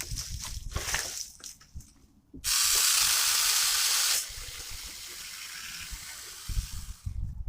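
SAKER 20V battery mini chainsaw run in a burst, a loud hiss that starts abruptly about two and a half seconds in. After nearly two seconds it drops to a weaker hiss that stops near the end.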